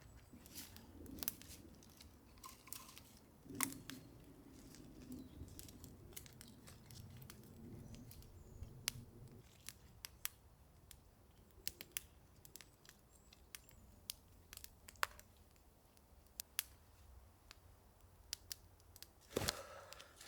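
Small campfire of fatwood and twigs crackling with irregular sharp pops, the fire newly lit and catching. A duller knock comes near the end.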